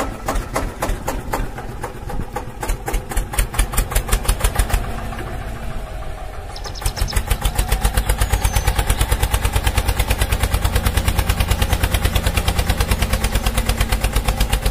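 Tractor engine chugging, a sound effect laid over a toy tractor: uneven, slower thumps for the first few seconds, then a steady fast putt-putt of about six to seven beats a second from about seven seconds in.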